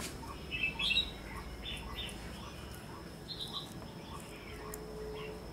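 Small birds chirping in three short bursts of quick high notes, with faint regular ticking underneath.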